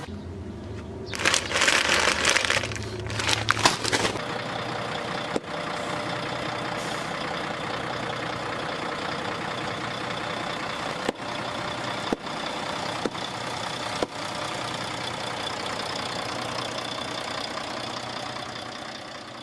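Truck engine idling, with about three seconds of loud crackling and hissing near the start, then steady engine noise broken by a few sharp clicks.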